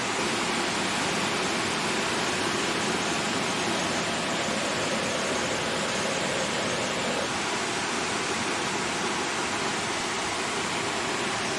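Steady rush of the Río On's water cascading over rocks into the pools, an even, unbroken roar.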